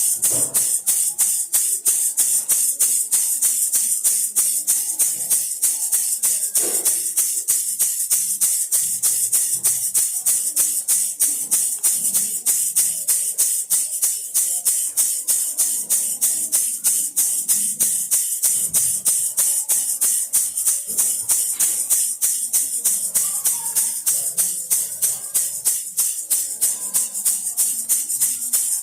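A baby rattle shaken steadily, its beads rattling in an even rhythm of a few shakes a second.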